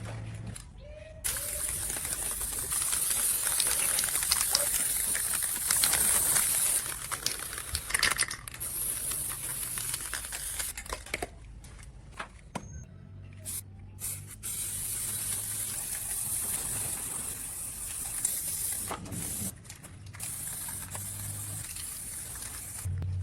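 Arc welding: the arc hissing and crackling steadily in two long runs, broken by a pause of two or three seconds near the middle. A low steady hum shows through during the pause.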